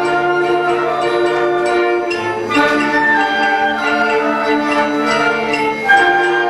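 School band playing a piece in sustained chords, with the chord changing about two and a half seconds in and again near the end.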